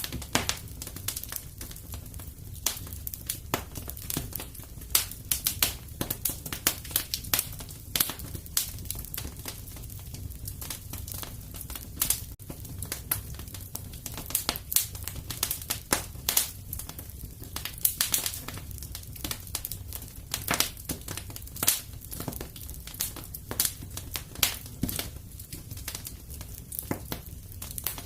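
Wood fire in a fireplace crackling, with sharp irregular pops and snaps over a steady low rumble of the burning fire.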